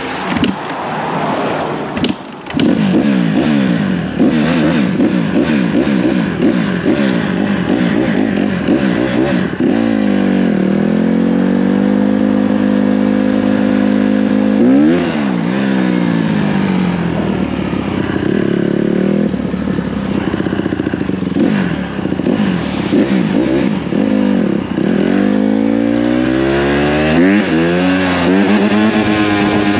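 Dirt bike engine revving up and down repeatedly, holding a steady pitch for a few seconds near the middle before revving again. A few sharp clicks about two seconds in.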